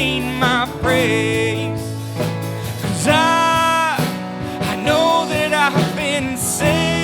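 Live worship band music with a singer's voice over it. The singer bends and wavers through notes and holds one long note near the middle.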